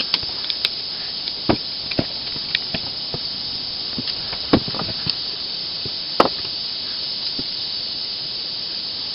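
Scattered small clicks and taps of tools and small metal parts being handled while a pneumatic nail gun is taken apart, over a steady hiss.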